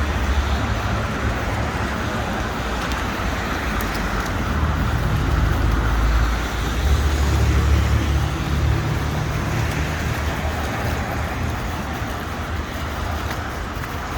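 City street traffic: a continuous noisy wash of passing cars with a low rumble that swells about halfway through and eases off toward the end.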